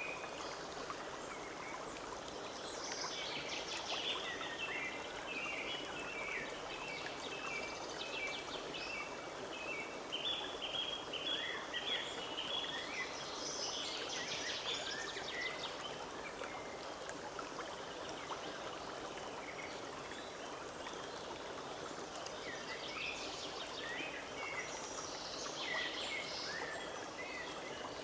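Forest stream running steadily, with small birds singing over it in several bouts of quick, repeated chirping notes.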